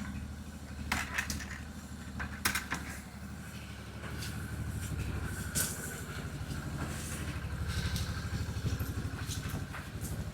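A vehicle engine running steadily with a low, pulsing rumble, with a few sharp clicks and knocks over it.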